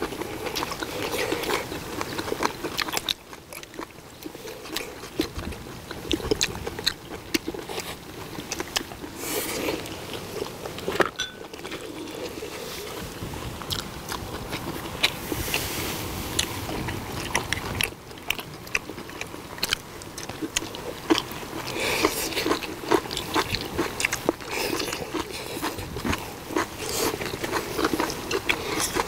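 Close-miked chewing and biting of several people eating stir-fried pork and kimchi (duruchigi) with rice, with a steady run of small clicks and taps of chopsticks on bowls and the pan.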